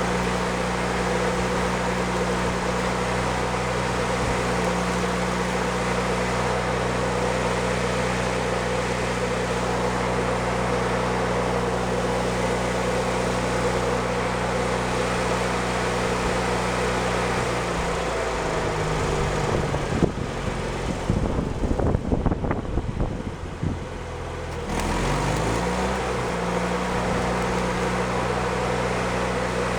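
An engine running steadily; a little past halfway it slows, a few seconds of sharp clicks and crackles follow, and then it speeds back up to its earlier pitch.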